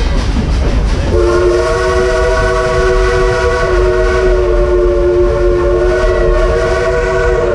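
Chime whistle of steam locomotive No. 192, a Baldwin-built narrow-gauge 2-8-2, blowing one long blast about a second in, several notes sounding together and held steady. Underneath runs the constant rumble and clatter of the moving train.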